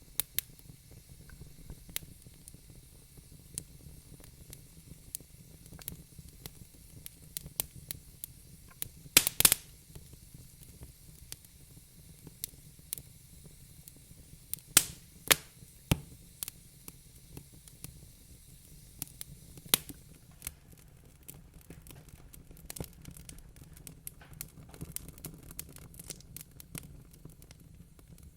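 Wood fire in a fireplace crackling, with irregular sharp pops over a low steady rumble; a quick cluster of loud pops about nine seconds in, and the small crackles grow denser near the end.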